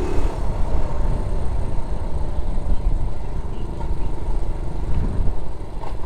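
Honda Z50J Monkey's small four-stroke single-cylinder engine running steadily, largely buried under heavy low wind rumble on the microphone.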